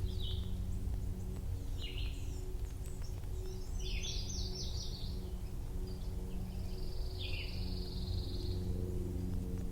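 Wild songbirds calling in short separate phrases about every two seconds, with a rapid trill near the middle and a longer trilled note later, over a steady low background rumble.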